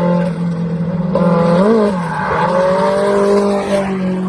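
Car engine running hard at steady high revs, its note wavering briefly up and down about a second and a half in.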